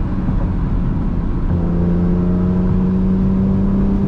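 BMW E46 M3's S54 straight-six, breathing through an Eventuri intake and Status Gruppe muffler, heard from inside the cabin while driving. Its steady note breaks up for the first second or so, then comes back about a second and a half in and climbs slowly in pitch as the revs build.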